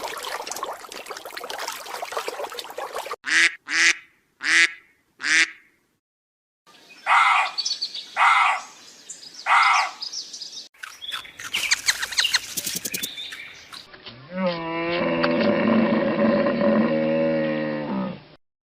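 A string of short animal-call clips spliced one after another: after a noisy opening, four short calls, then three longer calls, a patter of quick chirps, and a long wavering call that stops abruptly near the end.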